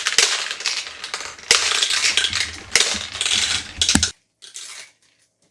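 Small plastic toy game pieces clattering, with four sharp clicks about a second and a quarter apart, each followed by rattling. It stops about four seconds in.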